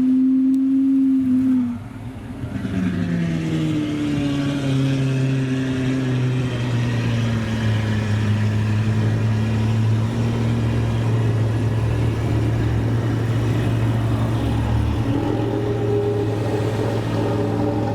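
Supercar engine running: held at a steady high pitch, it drops off about two seconds in, then settles into a steady low drone whose pitch eases down over the following seconds and lifts slightly near the end.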